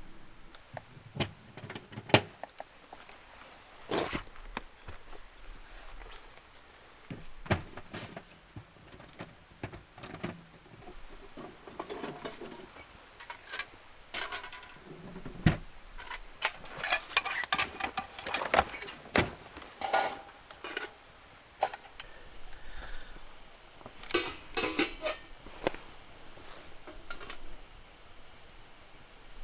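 Scattered clicks, knocks and light clatter. About two-thirds of the way through, a steady high-pitched insect drone starts up behind them.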